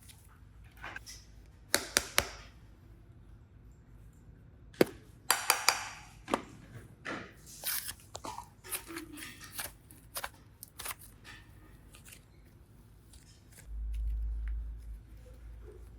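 Hands handling modelling clay and slime with small tools: a string of sharp clicks, snips and crinkles, with a low rumble from about two seconds before the end.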